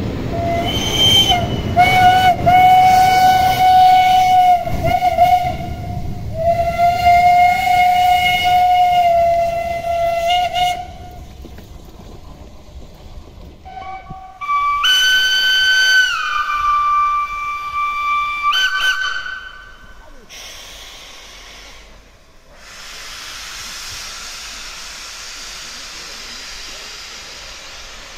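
Steam locomotive whistles: two long blasts on a lower whistle over the rumble of a passing train, then a higher-pitched whistle sounded in two blasts, its pitch dropping partway through the first. A steady hiss follows near the end.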